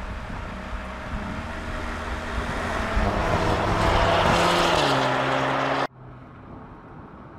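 2024 Audi S3's 2.0 TFSI turbocharged four-cylinder running through its four-pipe exhaust as the car drives up close, the engine note and road noise growing louder, then stepping down in pitch about four and a half seconds in. The sound cuts off abruptly about six seconds in to a much quieter, even rush.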